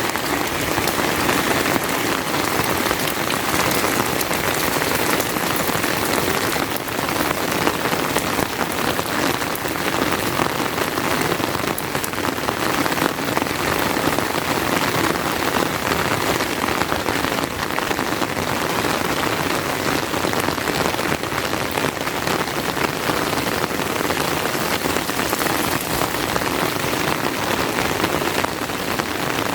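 Steady rain falling, a dense, even hiss of many drops with scattered sharper drop ticks.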